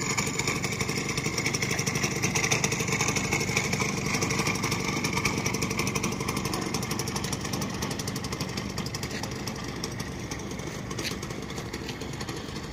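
Minsk D4 125 motorcycle's small single-cylinder engine running steadily, a little louder a few seconds in and easing off toward the end.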